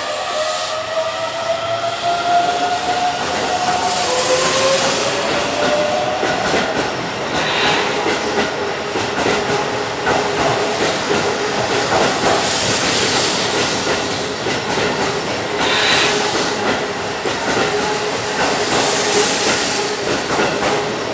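Keihan 7200-series electric train with VVVF inverter drive pulling out and accelerating past. Over the first six seconds its inverter and motors give several whines that climb in pitch. After that come steady wheel-on-rail rolling noise with a steady motor tone, rail-joint clicks and a few hissing surges as the cars go by.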